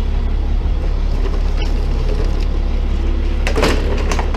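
Tow truck engine idling with a steady low rumble, and a brief rustle and clatter of scrap car parts being handled about three and a half seconds in.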